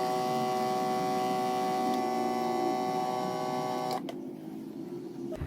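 A steady electric hum of several even tones, like a small appliance motor running, that cuts off suddenly about four seconds in.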